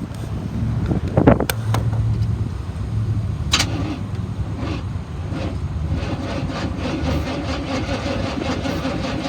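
1989 Chevy 3500's 5.7-litre V8 turning over on the starter without firing, because the distributor cap is off and the spark plug wires are missing. A few clicks come first, then the cranking settles into a steady, even rhythm.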